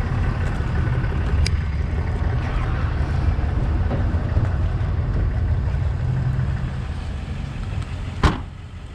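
A vehicle running: the steady low rumble of engine and road noise, easing off near the end, with one sharp click shortly before the end.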